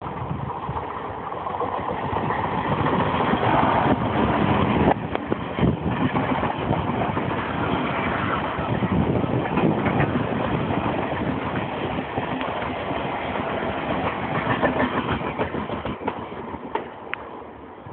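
Train running past close by, wheels clattering on the rails. It grows louder over the first few seconds, holds steady, and eases off near the end.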